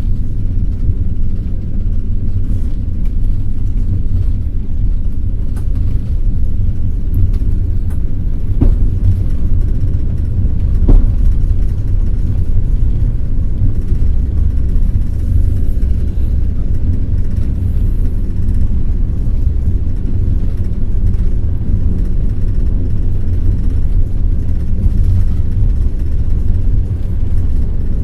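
Passenger train running on the rails: a loud, steady low rumble of the carriage and wheels, with a couple of faint clicks.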